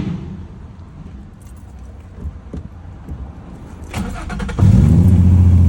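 Nissan 350Z's VQ35DE V6 cranked by the starter about four seconds in, catching and settling into a loud, steady idle. The engine has a misfire on cylinder 3 (code P0303).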